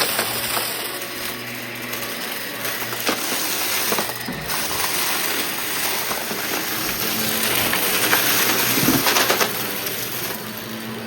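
Vacuum cleaner running steadily while sucking up a scattered test mess, small hard bits clicking and rattling as they are pulled in.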